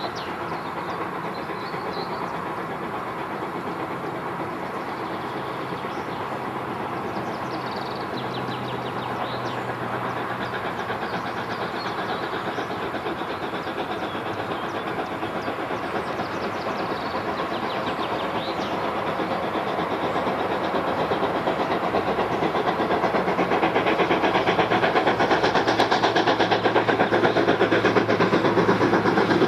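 A train running on the line, steady at first and growing louder over the last third.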